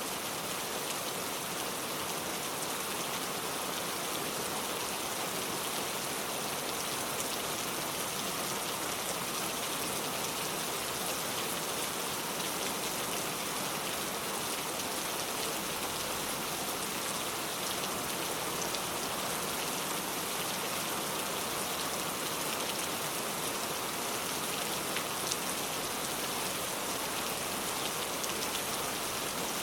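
Steady heavy rain falling, an even hiss of many drops that holds without a break.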